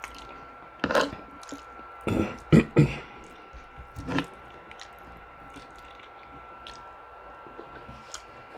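Close-miked eating sounds: chewing, with wet smacking and squishing bites, loudest in a cluster in the first half and then only small clicks.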